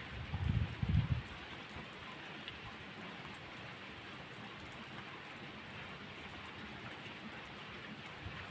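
Steady rain falling, an even hiss with no let-up. A brief low rumble rises and dies away in the first second.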